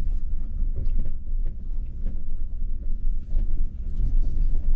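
Truck crawling over a very rough, rocky dirt track: a steady low rumble of engine and tyres, with scattered knocks and rattles as it jolts over the rocks.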